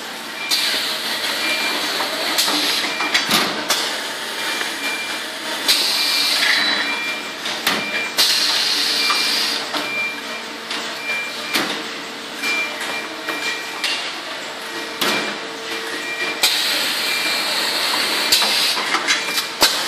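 Semi-automatic bottle shrink-wrapping machine with a pusher, running: a steady hum with repeated clacks and knocks, and several stretches of hissing lasting one to three seconds.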